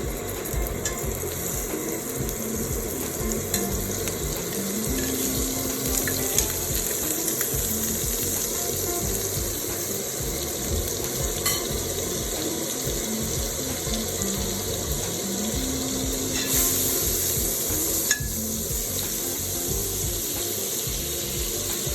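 Chicken pieces frying in hot oil and butter in a pan: a steady sizzle with a few sharper pops here and there.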